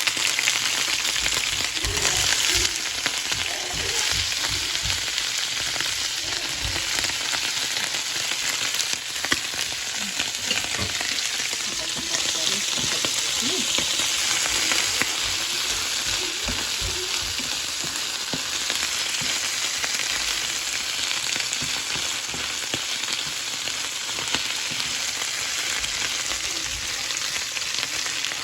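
Turkey gizzards frying in hot oil with spices, a steady loud sizzle that starts suddenly as they go into the pan. Short low knocks throughout, as a utensil stirs against the pan.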